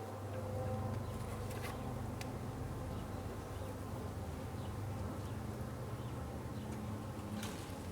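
Honey bees buzzing in a steady hum at a crowded, busy hive entrance, with a few faint clicks.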